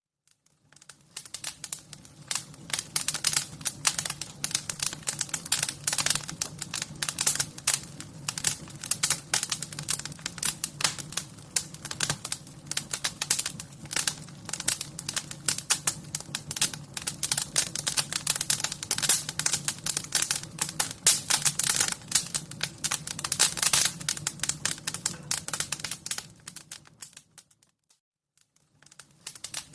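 Wood fire burning in a fireplace, with dense irregular crackles and pops over a steady low rumble. It fades out near the end, falls silent for about a second, then starts again.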